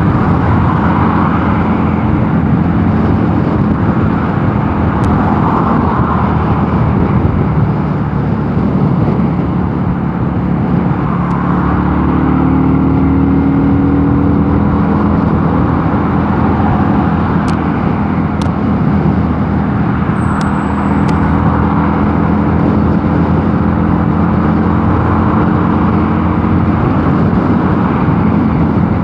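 Mondial Nevada 250 motorcycle engine running steadily under way, with wind rushing past the microphone. Two brief clicks come a little past the middle.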